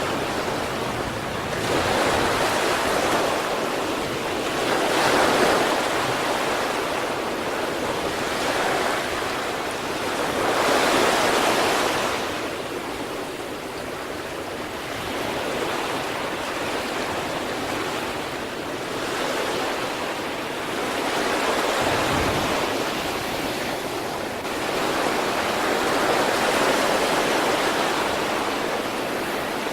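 Sea waves breaking on the shore: a continuous rushing wash that swells and recedes every few seconds, with the loudest surges about five and eleven seconds in.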